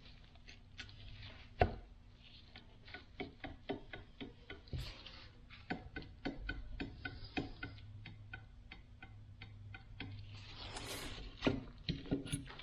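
Irregular light metal clicks and taps from hand work on a Toyota FJ40 steering gearbox, with a short scrape about eleven seconds in.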